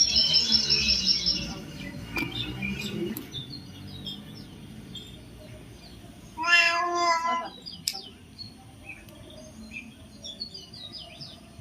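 A loud, drawn-out animal call about six seconds in, like a meow, lasting about a second, over birds chirping, with a rapid high chirping trill at the start.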